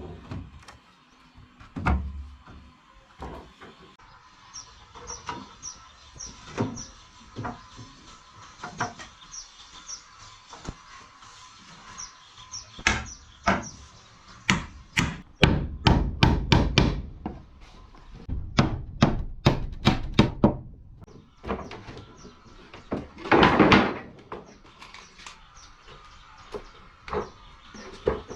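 Hammer striking wood in irregular blows, with a quick run of heavy strikes in the middle. A rough noise of about a second follows about three-quarters of the way through.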